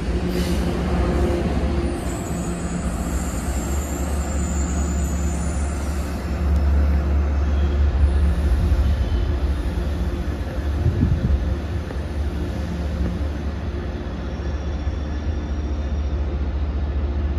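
MBTA commuter rail train running past and pulling away, a steady heavy low rumble with a low hum. A faint high whine comes in for a few seconds near the start.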